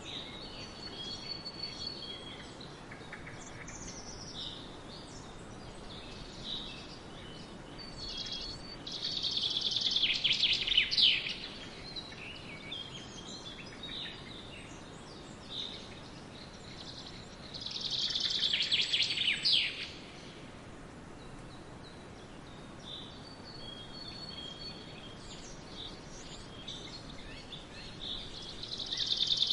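Songbirds singing and chirping over a steady background hiss, with one louder song of about two to three seconds repeated three times, roughly nine seconds apart.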